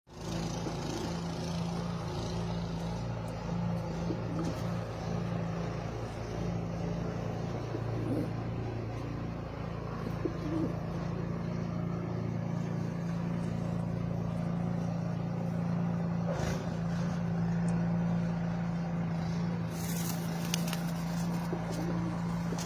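A steady low mechanical hum, with pigeons cooing softly now and then.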